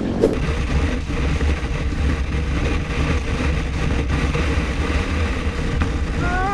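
A vehicle on the road, most likely a motorcycle, running steadily under a constant rush of wind noise. A rising tone comes in near the end.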